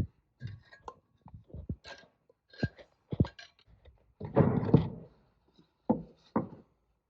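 Metal powershift parts being handled on a workbench: scattered knocks and clinks, with a longer, louder scrape about four seconds in.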